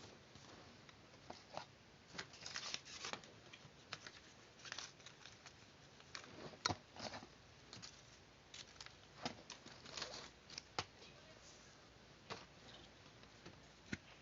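Paper being cut and handled: irregular short snips and rustles with a few sharp clicks, one louder click about halfway through.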